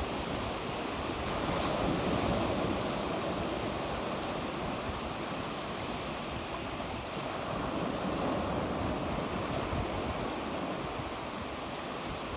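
Sea waves breaking and washing on the shore, a steady surf with gentle swells, with wind on the microphone.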